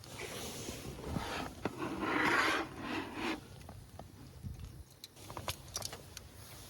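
Rubbing and scraping from something being handled, loudest about two seconds in, then a few light clicks and taps.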